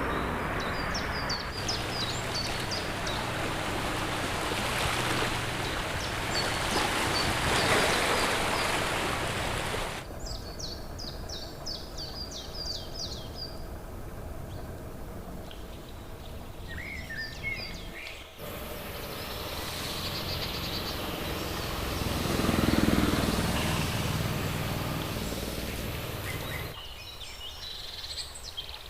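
Wild birds calling, with short high chirps in quick series and some lower twittering, over a steady outdoor background hiss that changes abruptly a few times.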